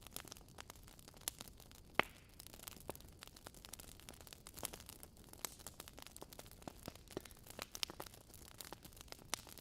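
Wood fire crackling: burning logs give off many irregular sharp pops and snaps over a soft hiss, with one louder pop about two seconds in.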